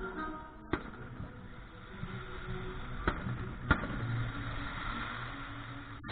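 Fireworks going off in a display: four sharp bangs spread over a few seconds, the last one the loudest, over a steady low rumble.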